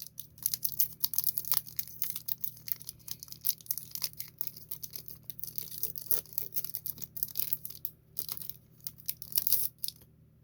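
Foil Pokémon TCG booster pack wrapper crinkling and tearing as it is ripped open and handled, a dense run of sharp crackles that stops suddenly near the end.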